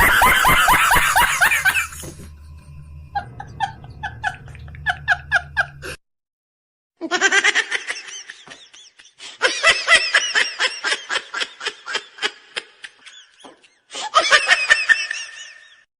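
A string of separate recorded laugh sound effects played one after another, with short silent gaps between them. A loud burst of laughter comes first, then a quieter laugh in short repeated pulses over a low hum, then longer runs of rapid laugh pulses.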